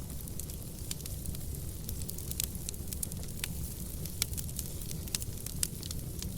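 Wood fire burning in a fireplace: a steady low rumble of the flames with irregular sharp crackles and pops from the burning logs, a few louder pops in the second half.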